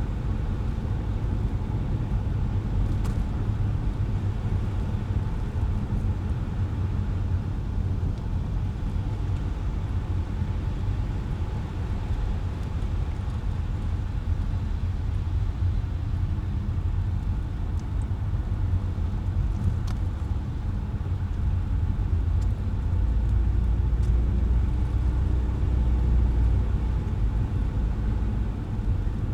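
Car driving on wet, slushy city roads: a steady low rumble of tyres and engine that swells for a few seconds near the end, with a few faint ticks.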